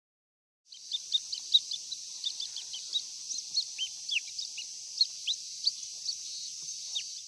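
Birds chirping: many short, quick chirps and a few falling whistled notes over a steady high hiss. The sound starts a moment in and cuts off suddenly.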